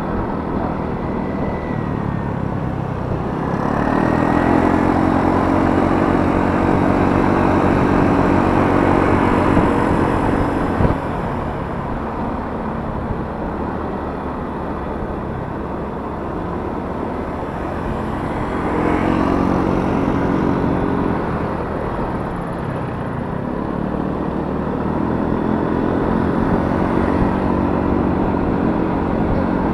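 Yamaha Mio S single-cylinder scooter engine running under way, with a steady rush of wind and road noise. The engine note rises with throttle a few seconds in, eases off about eleven seconds in, and picks up again twice later, with one short knock about eleven seconds in.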